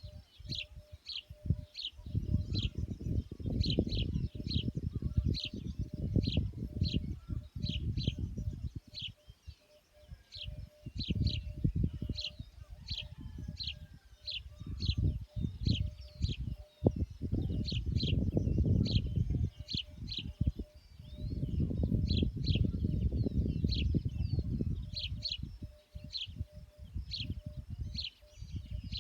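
A bird repeating a short high chirp over and over, about one to two chirps a second, over a low rumbling noise that swells and fades in gusts.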